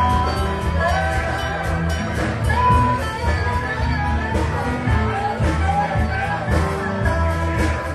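Live band playing an amplified song, with a strong bass line, a steady drum beat and a wavering melody line over it.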